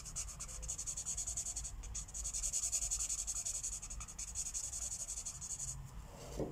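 Felt-tip marker tip rubbing on paper in quick back-and-forth coloring strokes, with a short break about two seconds in. The strokes stop near the end, and a single soft knock follows.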